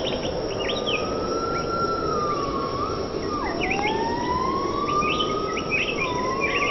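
Tropical rainforest ambience: a dense, steady background hiss with many short bird chirps over it. One long whistling tone slowly wavers up and down through the whole stretch, dipping sharply about three and a half seconds in.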